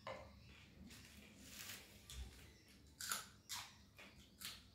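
A raw green chilli being bitten and chewed: a handful of crisp crunches, the loudest about three seconds in.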